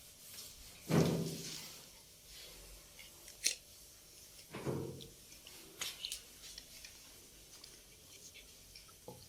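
Scrubbing and wiping on bathroom wall tiles, heard as intermittent rubbing with scattered sharp clicks and two short low sounds, one about a second in and one near the middle.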